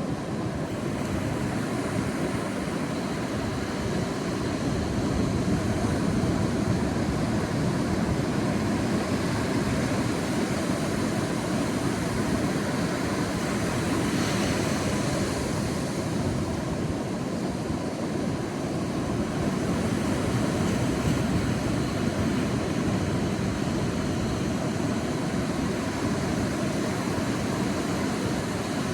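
Sea waves washing onto a beach in a steady surf, swelling and easing slowly, with one stronger wave breaking about halfway through.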